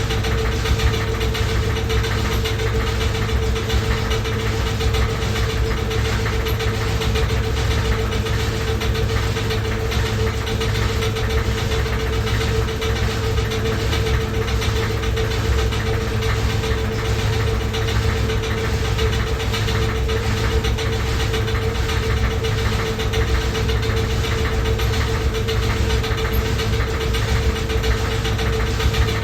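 Loud washing machine running with a steady whine and a fast, continuous rattling knock over a low hum.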